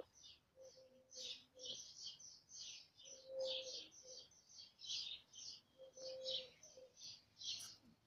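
Small birds chirping rapidly and continuously, with short, steady low notes now and then.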